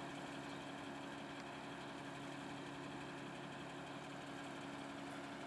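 Tow vehicle's engine running, a steady, even hum that holds one pitch throughout.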